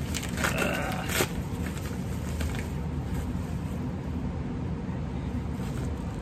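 A steady low background rumble, with a short rustling scrape about half a second in, typical of a cardboard package being picked up and handled.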